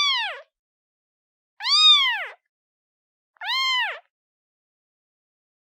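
Newborn kitten meowing for its mother: three short high meows about two seconds apart, each rising then falling in pitch.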